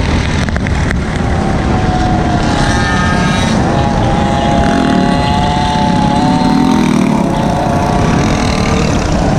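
Several small engines of gopeds and mini bikes running on the move, their pitch rising and falling, over a loud steady rumble.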